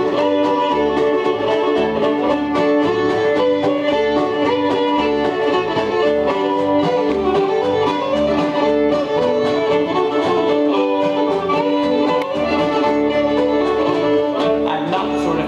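Acoustic bluegrass-style band playing an instrumental break: a fiddle carries the melody over guitar and a steady low beat.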